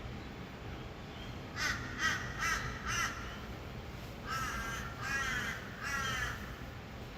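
A bird calling harshly: four short calls about a second and a half in, then three longer, wavering calls. A low steady hum of distant city traffic runs underneath.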